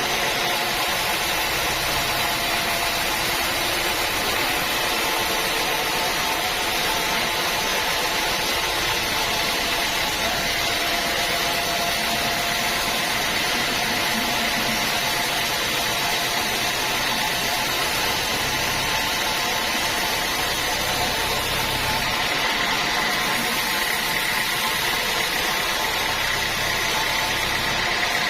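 Sawmill saw machinery running steadily, a constant mechanical noise with a steady high whine over it.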